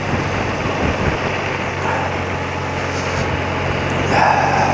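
Old BMW motorcycle engine running at a steady note while riding, under a constant rush of road and wind noise. A brief higher-pitched sound cuts in about four seconds in.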